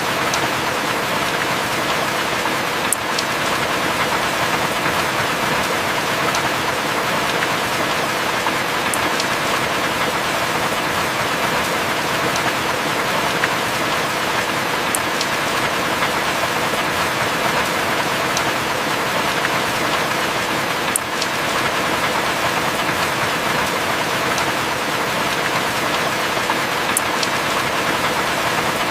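Heavy rain falling steadily, with a single sharp drip tick about every six seconds.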